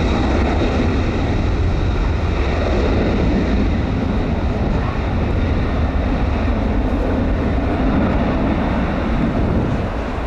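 Boeing 767-400 airliner's twin jet engines running with a loud, steady roar that eases slightly near the end.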